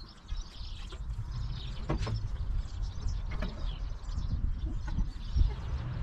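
Birds chirping over a low, uneven rumble, with a few faint clicks.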